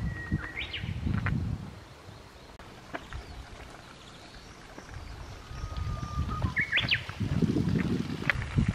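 A bird singing twice. Each song is a long held whistle that ends in a quick, sharply rising flourish. Low rumbling noise comes and goes underneath and is loudest during the second song.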